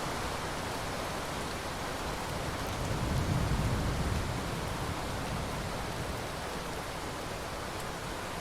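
Steady rain, with a low rumble of thunder swelling about three seconds in and dying away about a second later.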